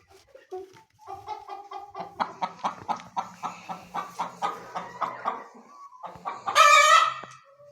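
Chickens clucking in a quick run of calls, about four or five a second, followed near the end by one loud, harsh squawk.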